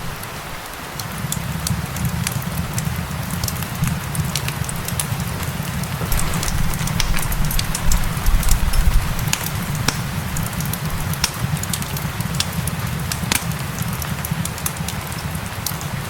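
Crackling wood fire, with many small sharp pops and snaps scattered throughout, over a steady hiss of rain and a low rumble that swells briefly about midway.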